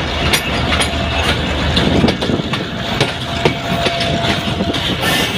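Train running on the rails: a steady rumble with irregular clicks and knocks from the wheels on the track.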